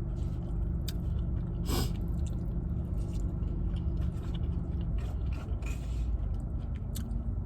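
Close-up chewing of food, with scattered short clicks and crunches, over a steady low hum.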